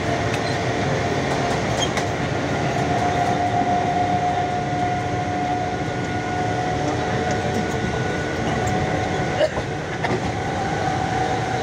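Mumbai suburban electric local train running, heard from inside the carriage: a steady rumble of wheels on track with a thin steady whine over it, and a single knock about nine and a half seconds in.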